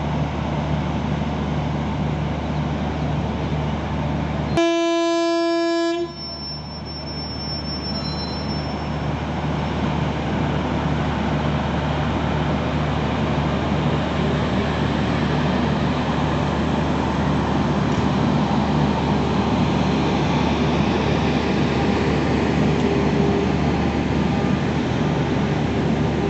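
Electric locomotive and passenger coaches passing at close range with a steady rumble and hum that builds toward the end. About five seconds in, one loud single-note horn blast lasts about a second and a half and cuts off suddenly.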